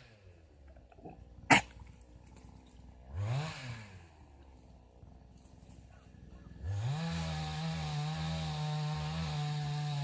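Small engine idling low, blipped up and back down briefly about three seconds in, then run up to a high steady speed about two-thirds of the way through. A single sharp snap about one and a half seconds in.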